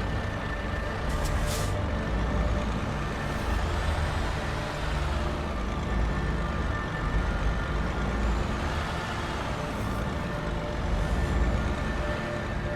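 Heavy bus or truck diesel engine running with a low rumble, with short air-brake hisses about a second in and again around ten seconds in.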